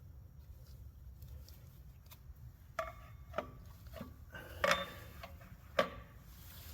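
Metal clinks and knocks as a clutch pressure plate is set against the flywheel and worked onto its alignment dowels: about four separate sharp hits in the second half, a couple with a short ring.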